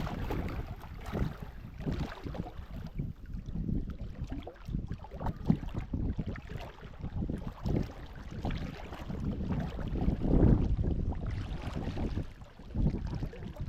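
Gusty wind buffeting the microphone, an uneven low rumble that swells and drops, loudest about ten seconds in.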